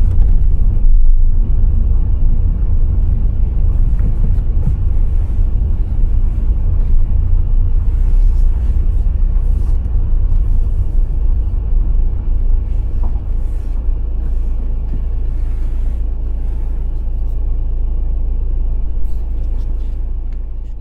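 Steady low rumble of a car driving on the road, fading out near the end.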